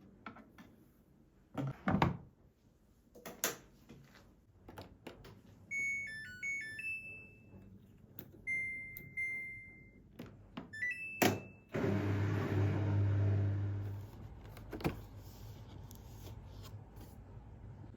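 A few knocks and clunks, then an appliance's electronic button beeps: a quick series of short beeps and two longer tones. About twelve seconds in, a machine starts up with a low hum and whir, then settles to a quieter steady hum.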